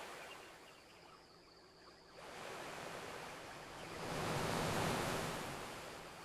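Ocean waves washing onto a beach: one wave recedes over the first two seconds, then another swells in about two seconds in, peaks, and slowly draws back.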